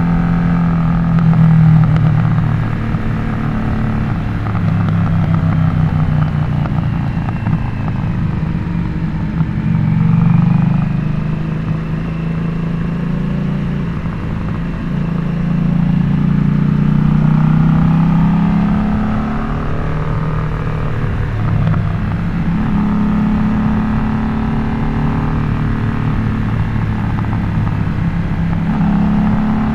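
Harley-Davidson Nightster V-twin running through a Jekill & Hyde adjustable valve exhaust while riding. The engine note rises and falls several times as the bike accelerates and eases off through the gears.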